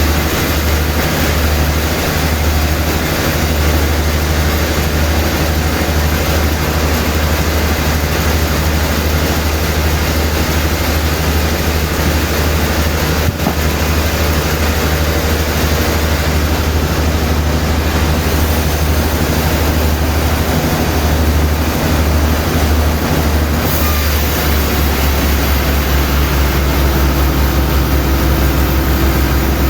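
Sawmill machinery running steadily: a loud, continuous low hum with an even rushing noise over it.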